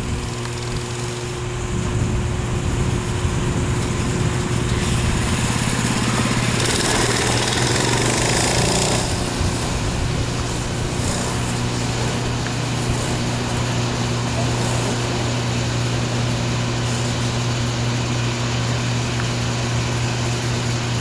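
Small minibike engine running, steady throughout and louder for a stretch from about two to nine seconds in.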